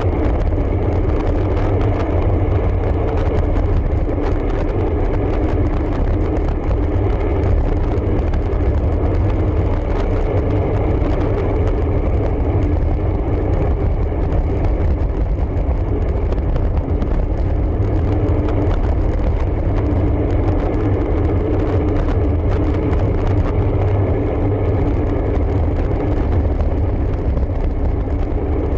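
Steady rushing wind and road noise from a road bike in motion: a continuous low rumble of wind buffeting the microphone, with tyre hum underneath and no distinct events.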